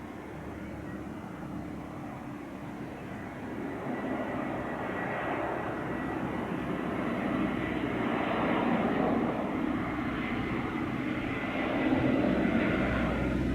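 Airbus A320 airliner's jet engines running and growing steadily louder, a rushing roar with a thin, steady high whine over it.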